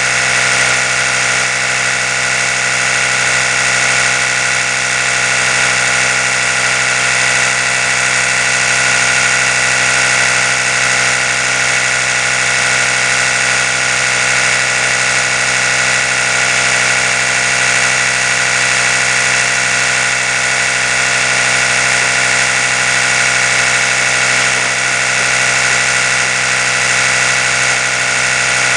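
Oral-B electric toothbrush running steadily: a continuous buzzing hum with many even overtones, its pitch and level unchanging.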